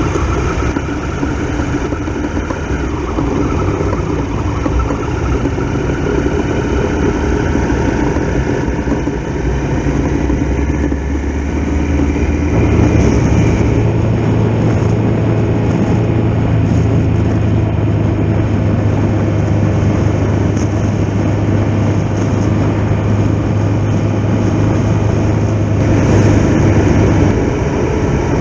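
Triumph Tiger Explorer XRx's three-cylinder engine running steadily, heard from a camera mounted on the bike. About 13 seconds in, a strong low steady tone comes in and holds until near the end.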